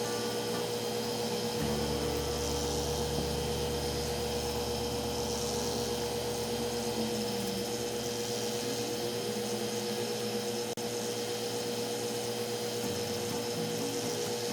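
Snap-on PS134pro A/C service station running steadily while it flushes liquid refrigerant through the car's air-conditioning lines: an even machine hum with one constant mid-pitched tone.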